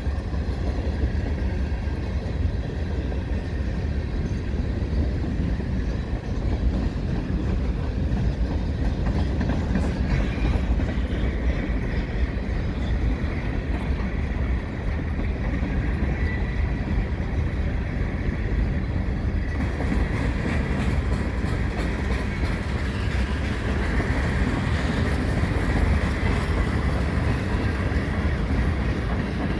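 Freight cars of a long CN freight train rolling past close by: a steady, heavy rumble of steel wheels on the rails. The sound grows brighter and harsher about twenty seconds in.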